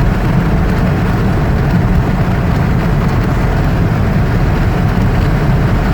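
Steady road and engine noise inside a moving car, a constant low rumble with no breaks.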